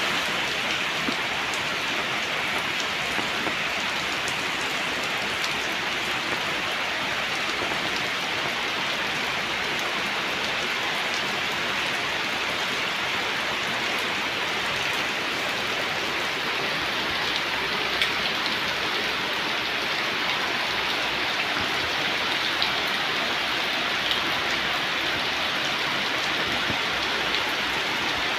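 Steady rain falling: an even hiss of rain with scattered drop ticks, and a few louder drops now and then.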